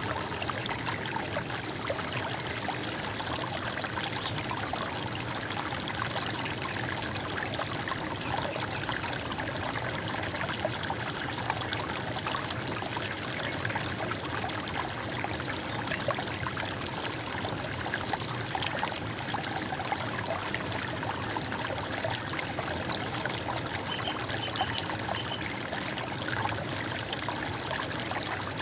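Running stream water: a steady, even rush with many small splashes and trickles.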